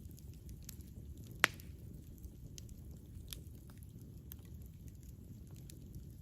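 Campfire burning: a steady low rumble of flames with scattered sharp crackles, and one loud pop about a second and a half in.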